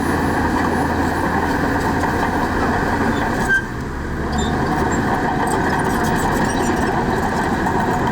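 Heavy diesel engine of earth-moving machinery running steadily, with a brief short squeal and a momentary drop in level a little after three seconds in.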